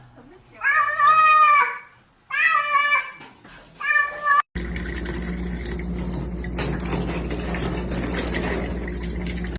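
A cat meowing loudly: three long, drawn-out meows about half a second apart. Then the sound cuts off suddenly to a steady low hum with a thick crackle of fine clicks.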